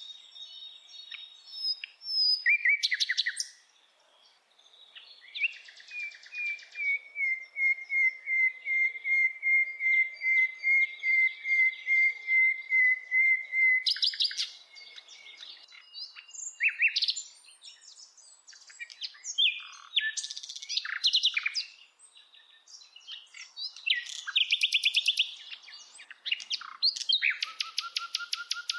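A bird singing a varied song of chirps and whistled phrases. About five seconds in it runs into a long, even trill of quickly repeated notes lasting roughly eight seconds, and near the end it breaks into a fast run of rapid notes.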